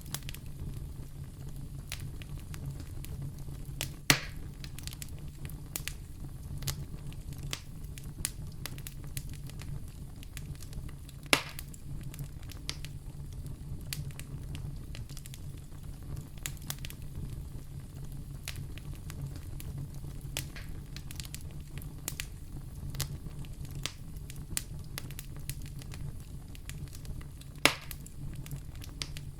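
Wood fire burning in a fireplace: a steady low rumble of the flames with constant small crackles, and three loud pops about 4, 11 and 28 seconds in.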